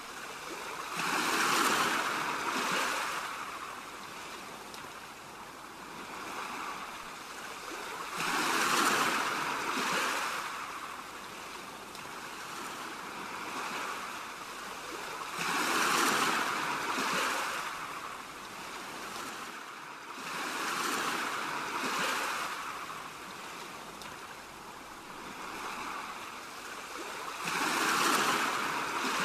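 Sea waves breaking and washing up a shore in slow swells, about one every six to seven seconds, five in all.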